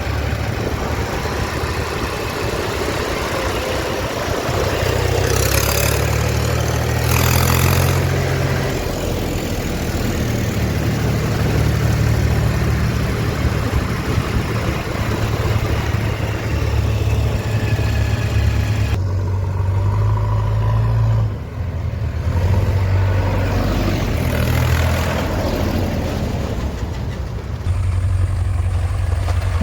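Diesel engines of a farm tractor and a backhoe loader running and working under load, their pitch shifting up and down. There are two short bursts of hissing noise about six and seven seconds in.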